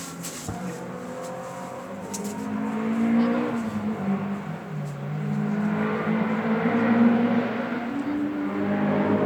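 Peugeot 306 Maxi rally car's engine under hard throttle on the climb, echoing off the valley. Its pitch rises, drops back about four and a half seconds in, then climbs again, and it grows louder as the car approaches.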